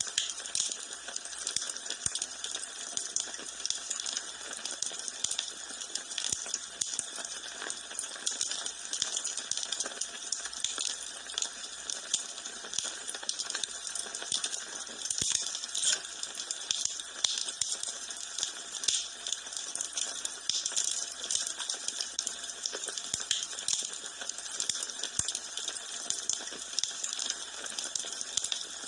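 Fire crackling in a fireplace: a steady stream of small pops and snaps over a soft hiss.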